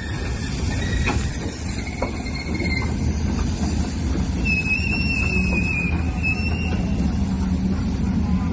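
A ship going down a slipway into the water: a steady low rumble with high metallic squeals, like wheels grinding on rails. There is a short squeal about two seconds in and a longer, louder one from about four and a half to seven seconds.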